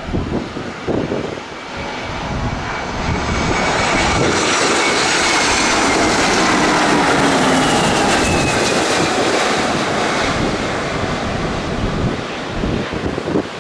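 An airplane passing close by: its engine noise swells to a peak about halfway through, the whine dropping in pitch as it goes past, then fades away. Wind buffets the microphone at the start and end.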